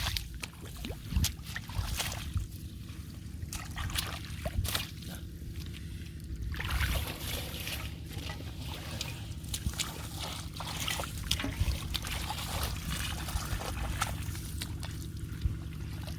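Shallow field water trickling and sloshing, with many short, scattered splashes over a steady low rumble.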